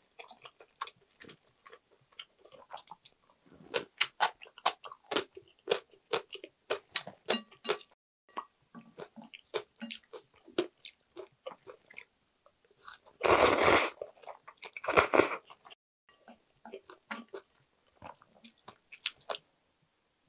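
Close-miked chewing of chewy jjolmyeon noodles and dumplings: many quick wet clicks and smacks of the mouth. About two-thirds of the way through come two loud rushing slurps of the noodles, a second or so apart.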